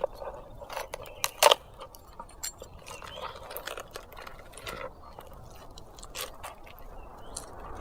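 Small hard objects being handled, making scattered light clicks and clinks, the loudest a pair about one and a half seconds in.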